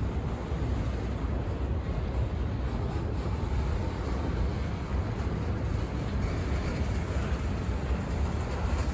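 Freight train rolling past, its wheels and cars making a steady rumble on the rails.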